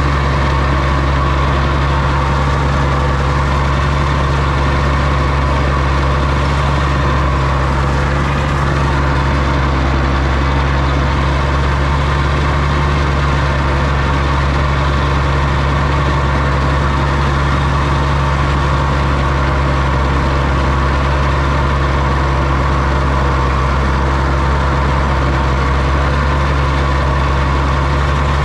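Oliver OC-6 crawler tractor's engine running steadily, with an even low hum and no change in speed.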